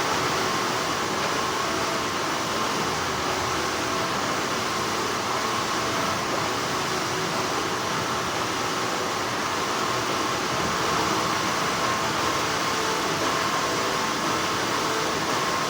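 Steady hum and whir of textile factory machinery: an even noise with a faint steady tone running through it.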